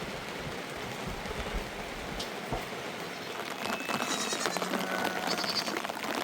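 Steady rain falling, an even hiss, with faint pitched sounds joining in from about three and a half seconds in.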